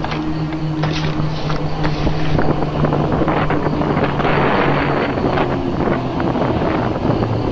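Wind rushing over the microphone, swelling around the middle. A steady low hum fades out during the first couple of seconds.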